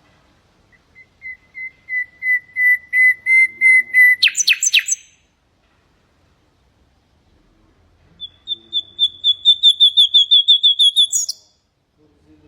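Common nightingale singing two phrases, each a run of repeated piping notes that swell in loudness. The first, lower phrase starts about a second in and ends in a rapid rattling flourish. The second, higher phrase comes after a pause, speeds up, and ends in a brief high trill.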